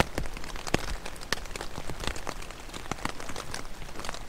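Heavy rain falling on a tent's fabric, heard from inside the tent: a dense, irregular patter of individual drop impacts.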